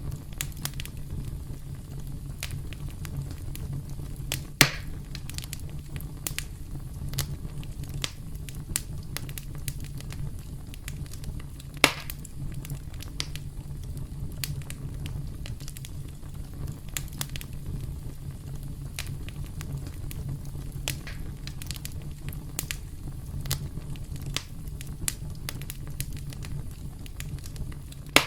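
Wood fire crackling steadily, with a constant low rumble under many small snaps and pops. Two louder pops come about five seconds in and again near the middle.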